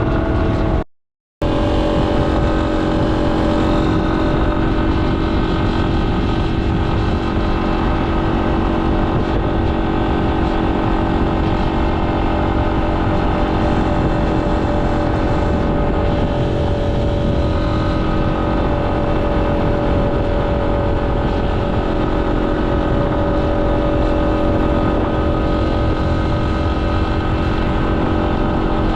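Yamaha XT250's single-cylinder engine running at a steady cruise, under a constant rush of wind and road noise. The sound cuts out completely for about half a second, about a second in.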